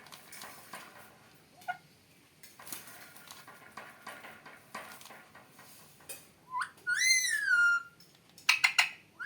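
Parrot giving one loud whistled call about seven seconds in, rising and then falling in pitch, followed by a quick run of short, sharp calls near the end. Before that there are only faint clicks and scratches.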